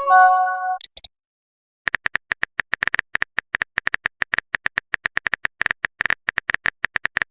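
A short phone message-notification chime, then from about two seconds in a long run of rapid keyboard-tap clicks, the typing sound effect of a texting chat.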